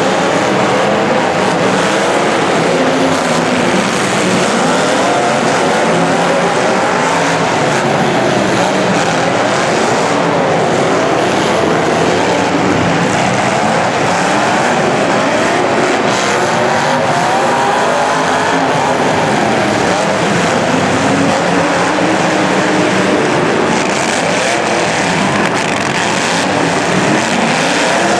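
Several racing engines running at once in a race heat, their pitches rising and falling as they rev and let off, over steady mechanical noise.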